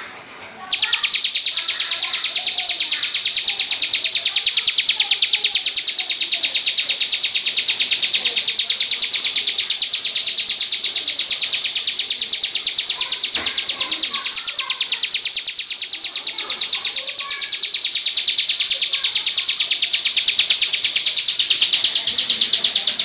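Bar-winged prinia (ciblek) singing its long 'ngebrend' song. It is a loud, very fast, even run of high notes that starts abruptly about a second in and goes on without a break.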